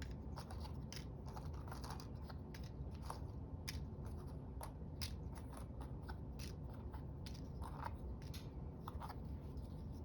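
Scissors snipping paper in short, irregular cuts, with small clicks of paper being handled.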